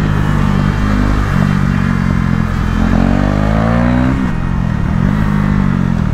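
KTM Duke 390 single-cylinder engine accelerating hard on the road, its pitch climbing and dropping with each gear change. A longer climb about three seconds in ends in a sudden drop, then the revs rise and fall again.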